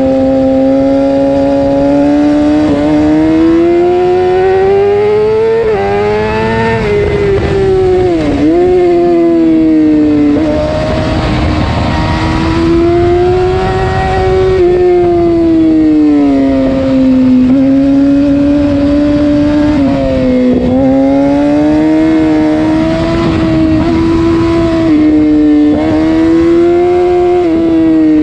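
Yamaha R6 inline-four sport bike with an aftermarket full exhaust system running hard under way, its pitch rising and falling with the throttle. The pitch drops sharply and recovers about eight seconds in, and dips again around twenty seconds in.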